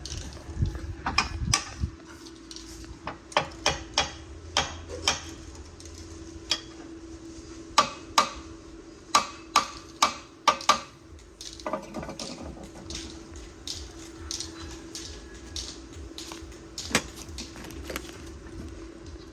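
Metal tools clinking and knocking against metal: irregular sharp strikes, some in quick pairs, with short pauses between them, over a faint steady hum.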